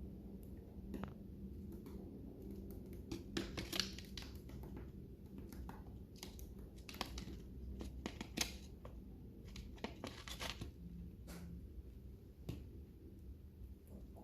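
Lovebirds cracking and husking seeds with their beaks: faint, irregular crunching clicks, some coming in quick clusters.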